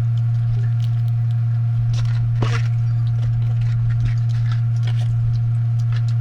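A loud, steady low hum with a fainter steady higher tone, like electrical mains hum, with scattered faint clicks and small eating noises on top, one a little louder about two and a half seconds in.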